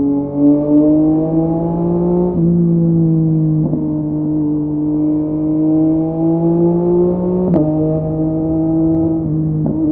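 Yamaha MT-09's 890 cc inline three-cylinder engine through a LeoVince LV Race exhaust under way, the note climbing slowly as it pulls and breaking off abruptly at gear changes. There is a sharp crack at one change about seven and a half seconds in.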